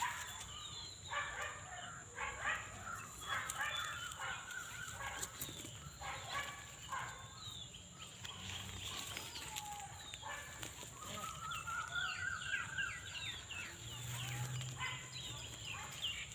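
Birds chirping and calling, many short downward-sweeping chirps, with a longer rising whistle about twelve seconds in. A steady high-pitched whine runs underneath.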